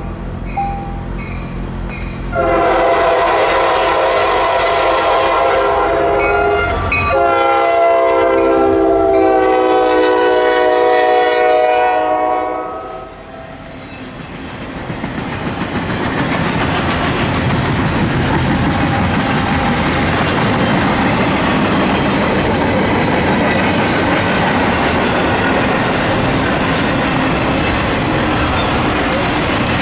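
Norfolk Southern EMD SD70 locomotive sounding its multi-tone chord horn in two long blasts, the second lower in pitch as the locomotive goes by. Then the intermodal train's cars roll past with steady wheel and rail noise and clickety-clack.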